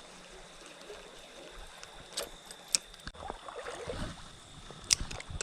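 Creek water flowing in a steady faint rush, with a few sharp clicks about two seconds in and again near the end, and a low rustling rumble in the last second or two.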